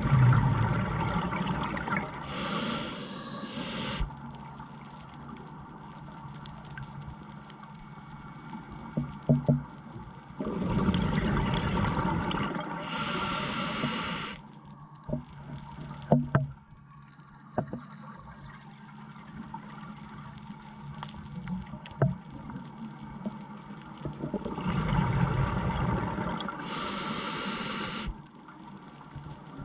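Scuba diver breathing through a regulator underwater: three breaths about twelve seconds apart, each a rush of air ending in a burst of exhaled bubbles. A faint steady hum and a few small clicks run underneath.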